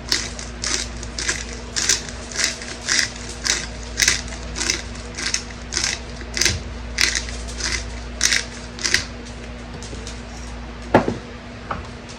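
Peppercorn grinder being twisted over the jars, crunching peppercorn medley in even strokes about twice a second. The grinding stops, and a couple of sharp knocks follow near the end.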